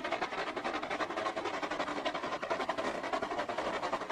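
Train running on the track, a steady dense rush with a fast rapid clatter.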